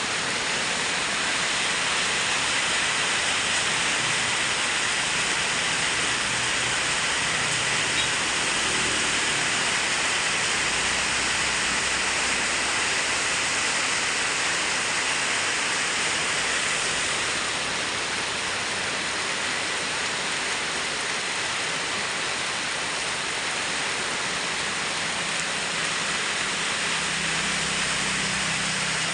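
Heavy rain falling steadily, a dense even hiss, with a low hum underneath at times.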